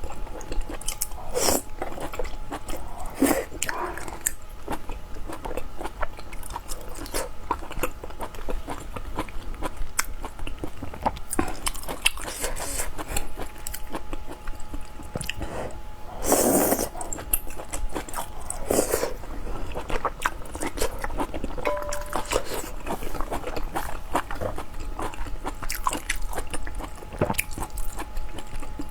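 Close-miked eating: a person biting and chewing food, with many small crunches and clicks. Several louder bites stand out, the loudest a little past halfway.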